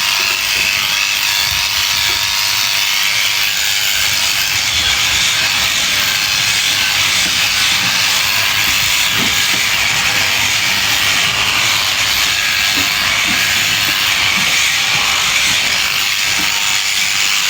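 Electric sheep-shearing clippers running steadily through fleece, a continuous hissing buzz with no breaks.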